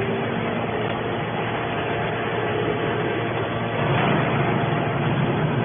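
Horizontal scrap metal baler running steadily, with a deeper, louder rumble building about four seconds in.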